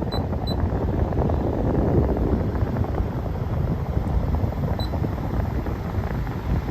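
Frigidaire Gallery GHWQ103WC1 dual inverter window air conditioner running, its fan blowing with a steady rushing noise. A few short high beeps sound right at the start and one more about five seconds in, from the control panel as the temperature setting is pressed down.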